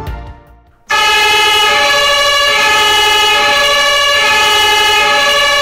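Fire engine horn sounding: a loud, steady multi-tone blare that starts suddenly about a second in and holds. Just before it, music fades out.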